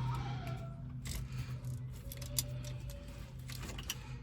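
A few sparse, faint metallic clicks from a socket wrench being worked on the differential cover bolts, over a steady low hum.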